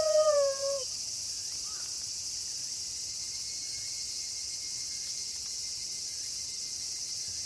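The end of a wolf howl, dropping in pitch and fading out within the first second, followed by a steady, high-pitched chorus of night crickets.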